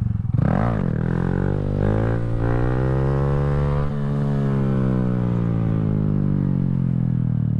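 Honda Grom's small single-cylinder four-stroke engine under hard throttle during a wheelie attempt: a quick blip about half a second in, then the engine note climbs for about three seconds and slowly winds down as the throttle eases.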